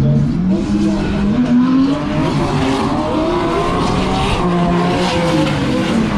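Drift car engines revving, their pitch rising and falling, with tyre squeal and skidding noise.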